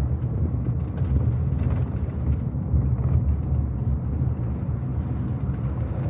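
Car engine and road noise heard from inside a slowly moving car: a steady low rumble.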